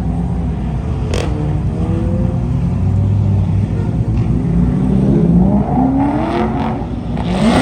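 Car engine with a loud exhaust accelerating hard: a sharp crack and a sudden drop in engine pitch about a second in, then the pitch climbs steadily through the second half, ending with another sharp crack.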